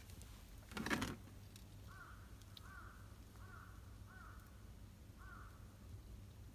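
A crow cawing five times in a row, short and faint, with even gaps between the calls. A brief bump about a second in is the loudest sound.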